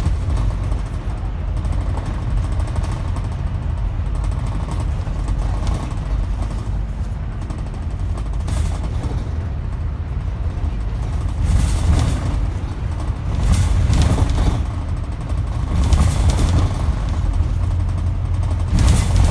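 Scania N270UD Omnidekka double-decker bus on the move, heard from inside: a steady low engine and road rumble, with several short hisses of air in the second half.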